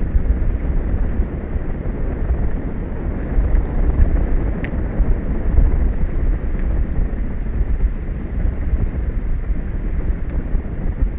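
Wind buffeting an outdoor microphone: a steady low rumble that flutters in loudness, with one faint tick about halfway through.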